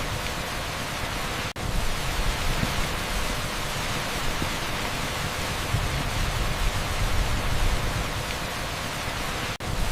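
Torrential rain on an asphalt street, a dense, even hiss with no separate drops standing out. It cuts out for an instant twice, about a second and a half in and near the end.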